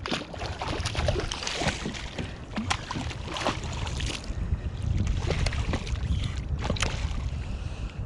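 Water lapping and splashing against a kayak hull, with wind rumbling on the microphone and scattered sharp clicks and knocks.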